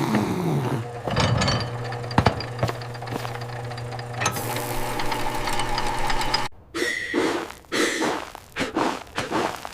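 Garage work noise: knocks and rattles of metal tools over a steady machine hum, with a falling squeal at the start; the hum stops about two thirds of the way through and choppy clattering follows.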